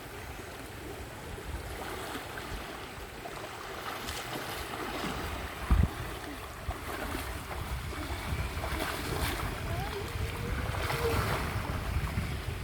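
Wind buffeting the microphone over a steady rushing outdoor noise, with one sharp thump about six seconds in.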